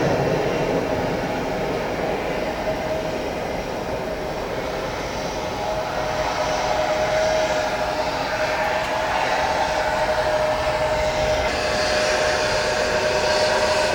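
Jet airliner engines running, a steady rushing noise with a steady whine that grows plain about six seconds in.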